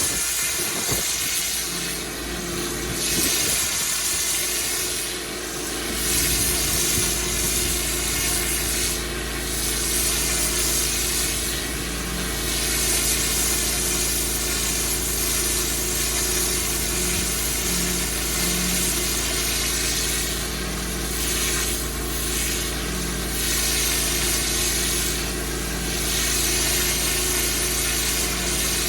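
Pressure washer engine running steadily under the loud hiss of a high-pressure water jet spraying onto block paving.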